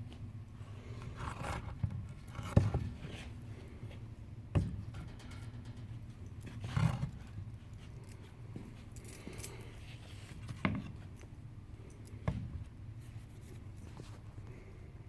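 A few scattered light knocks and short scraping sounds over a low steady hum.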